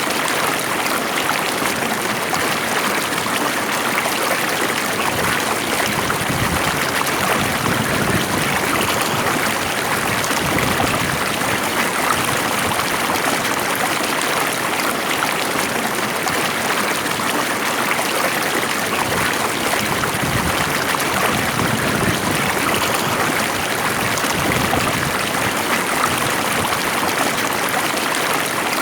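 Stream water flowing steadily over rocks, an even rushing and trickling with no change.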